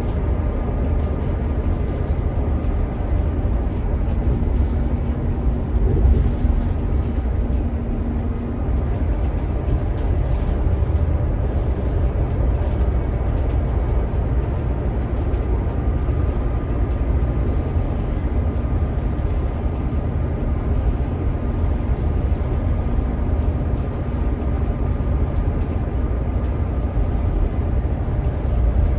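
Scania K 280 IB bus running steadily: its 9.3-litre five-cylinder DC9 turbo-diesel hums along under a continuous low rumble.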